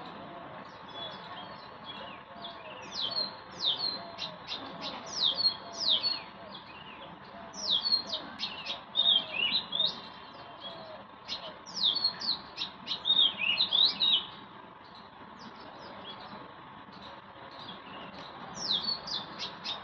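Small birds chirping: bursts of short, sharp, high notes that sweep downward, several in quick succession, separated by quieter gaps. A faint steady hum runs underneath.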